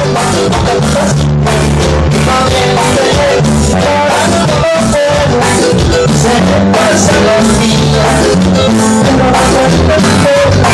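Loud, steady band music in a tropical Latin dance style, with bass, drums, guitar and singing.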